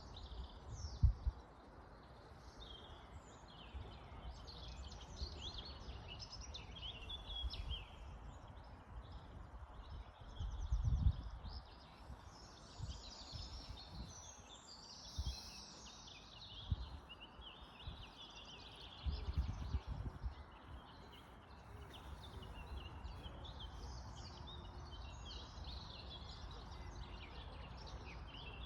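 Several birds chirping and calling throughout, over a steady outdoor hiss. Low rumbles come and go, the loudest about a second in and about eleven seconds in.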